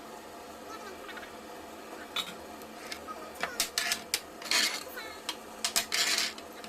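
Kitchen utensils clinking and scraping against pots and dishes: a run of sharp clicks from about two seconds in, with two longer scrapes near the middle and end.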